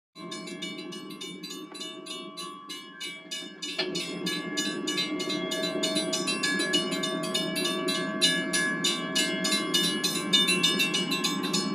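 A train running with a fast, even clatter of about five clicks a second over a low rumble and steady tones, getting louder about four seconds in.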